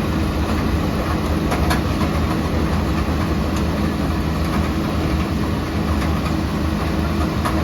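Combine harvester's engine running steadily under load, with continuous mechanical rattling from the machine.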